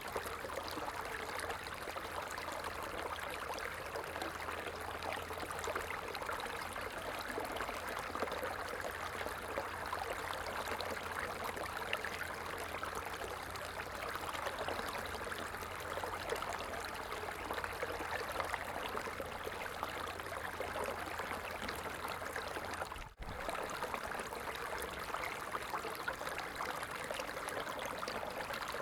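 Stream water flowing steadily, an even rushing trickle. The sound cuts out for a split second once, late on.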